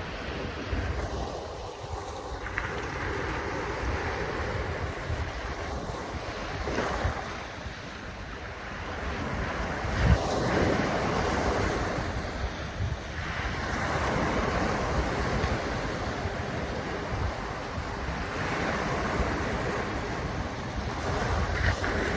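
Wind buffeting the microphone over washing water, rising and falling in swells every few seconds, with a single knock about ten seconds in.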